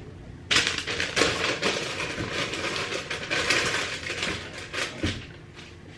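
Kitchen utensils scraping and clattering: a run of rough scraping with sharp clinks that starts about half a second in and stops about five seconds in.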